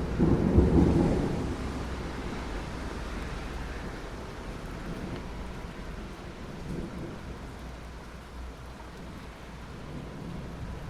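Steady rain falling, with a roll of thunder that swells at the start, is loudest about a second in, and dies away over the next few seconds.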